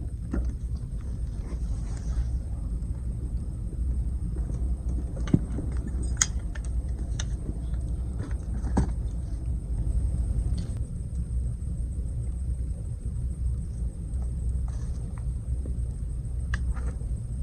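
Wood campfire crackling, with a few sharp pops scattered through, over a steady low rumble.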